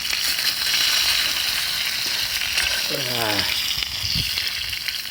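Chicken sizzling as it grills over a campfire: a steady hiss. A short falling vocal sound comes about three seconds in.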